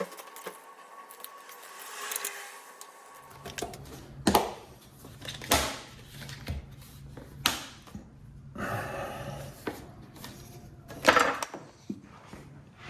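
Scattered sharp knocks and clatter of objects being handled, over a low steady hum that starts about three seconds in.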